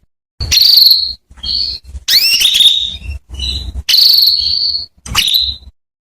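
Female domestic canary calling: a run of short calls with brief gaps between them, mixing rising chirps and buzzy high trills.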